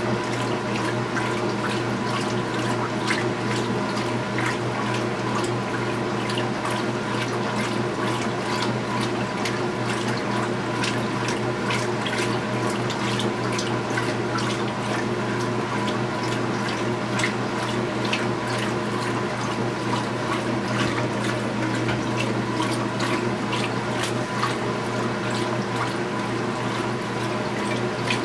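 Speed Queen top-load washing machine with water rushing and splashing into the tub, over a steady electrical hum.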